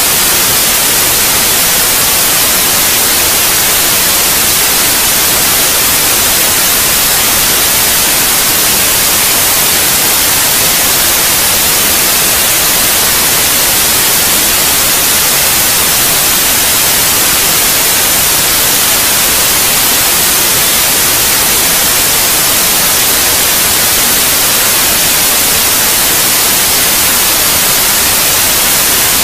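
Steady, unchanging white noise: a loud, even hiss, strongest in the high end, played as a sleep sound for babies.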